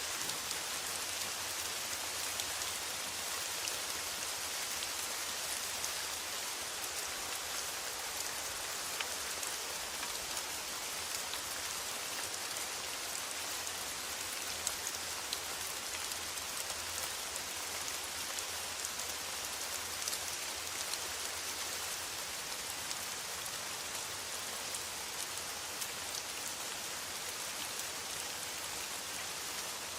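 Steady rain falling on a metal roof: an even hiss with many small, sharp drop ticks scattered through it.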